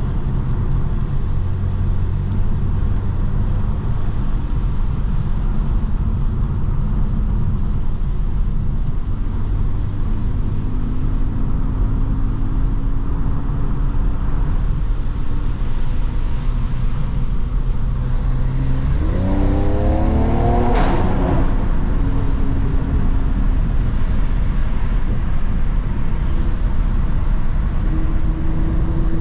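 Mercedes-AMG C43 engine and exhaust under way, running steadily at cruising revs. About 19 s in it revs up sharply, with a single sharp crack at the top, then settles back to steady running.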